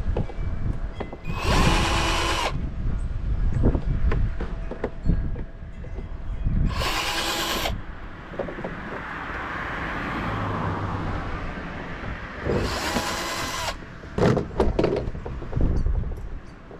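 Power drill running in three short bursts of about a second each, spaced roughly five to six seconds apart, with clicks and knocks of handling between the bursts.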